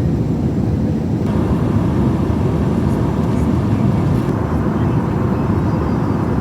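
Steady low rumble of an Airbus A321's engines and rushing air heard inside the passenger cabin, with a fainter hiss above it.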